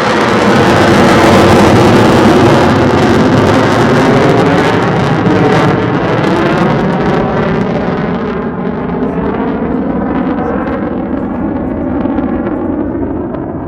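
Roar of an F-35A Lightning II's jet engine passing, with a slowly shifting swirling tone, loudest about two seconds in and then fading and growing duller from about eight seconds in as the jet moves away.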